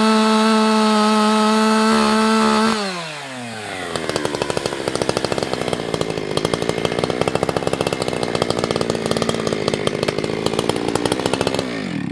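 Husqvarna 365 X-Torq two-stroke chainsaw held at full throttle with a steady high note. About three seconds in the throttle is released and the engine drops to a low, uneven idle. Right at the end the saw is shut off and the sound stops suddenly.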